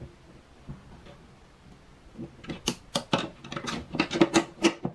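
Metal hand tool on skateboard truck hardware: a skate tool turning the truck nuts and bolts as they are tightened a little at a time. There are a couple of quiet seconds, then a quick run of sharp metallic clicks and clinks.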